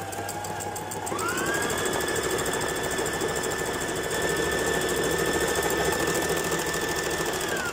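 Brother GS2700 electric sewing machine running, sewing special stitch 15, a triple straight stitch that lays three lines of ordinary stitch together. The motor whine speeds up about a second in, holds steady, then winds down as the sewing stops near the end.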